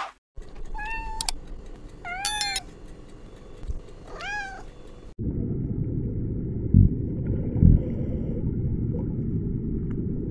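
An animal gives three short, high calls about a second apart, each rising and then falling in pitch. Then a steady low rumbling noise with a few thumps takes over abruptly.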